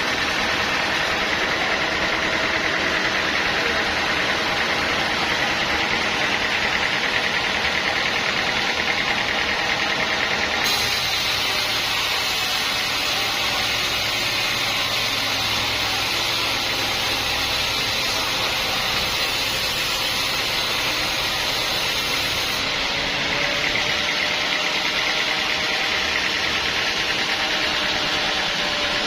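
Sawmill machinery running steadily, a continuous engine-and-saw noise with a faint steady hum. The sound shifts in character about eleven seconds in and shifts back about twenty-three seconds in.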